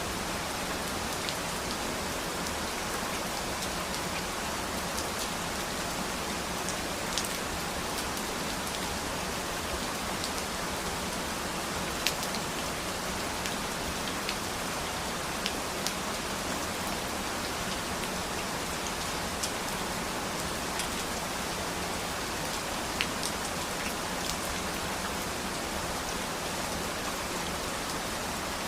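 Steady, even rain falling, with scattered sharper ticks of single drops landing close by.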